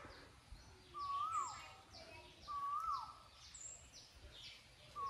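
A bird calling over and over: a clear whistled note that rises, holds briefly and then drops, three times about every second and a half to two seconds, with faint high chirps from other birds behind it.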